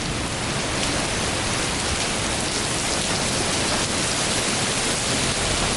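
Heavy rain pouring down steadily in a thunderstorm downpour.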